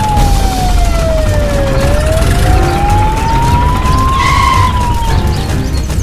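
A siren wailing slowly, its pitch sliding down for about two seconds, climbing back up, then starting to fall again, over a low, steady rumble.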